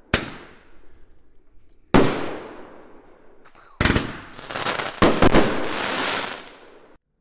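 Consumer fireworks going off: two sharp bangs about two seconds apart, each with a fading echo. Then, about four seconds in, a quick run of several bangs with a dense crackle that fades and cuts off abruptly near the end.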